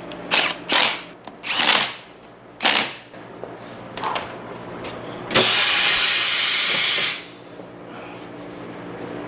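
Impact wrench run in four short bursts, running lug nuts onto a wheel, then a loud steady hiss lasting under two seconds.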